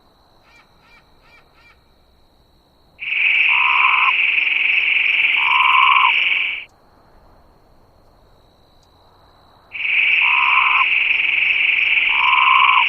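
Toad calling: two long, even trills of about three and a half seconds each, a few seconds apart.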